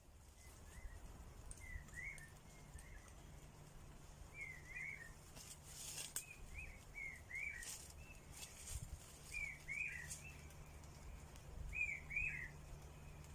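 Small bird chirping: quick curved notes in groups of two or three, repeating every couple of seconds. A few soft crackles, like rustling leaves, come in the middle.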